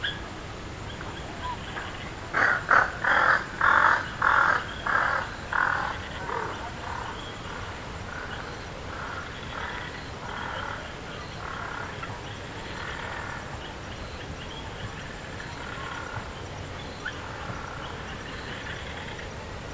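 A bird gives a long run of harsh calls, about two a second. The calls are loudest at first and fade away over several seconds. Small birds chirp faintly in the background.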